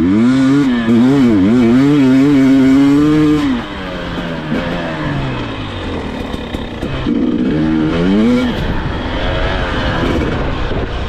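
KTM 300 XC-W TPI two-stroke dirt bike engine revving up and down under changing throttle for about three and a half seconds, then dropping back to quieter running, with another short burst of revs around two thirds of the way through.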